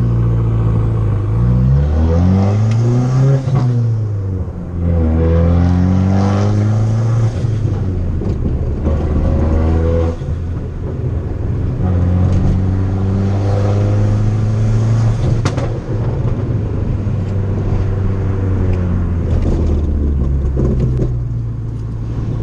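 Fiat 500 Abarth's turbocharged 1.4-litre four-cylinder accelerating hard: the revs climb and drop back several times as it shifts up through the gears, with stretches of steady running between.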